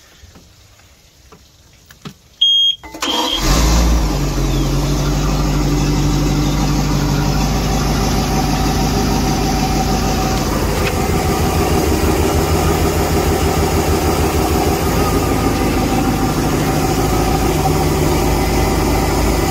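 Volvo Penta 5.0-litre V8 marine engine being started: a short high beep as the key is turned, a brief crank, then it fires about three seconds in and settles into a steady idle with both exhaust manifolds freshly reinstalled.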